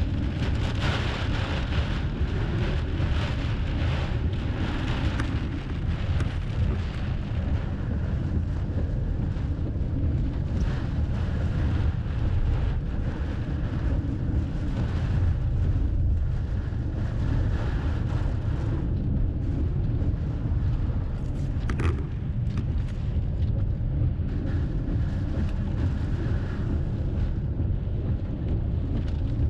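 Storm wind buffeting the microphone: a steady, loud low rumble with a hiss above it, and one sharp click about 22 seconds in.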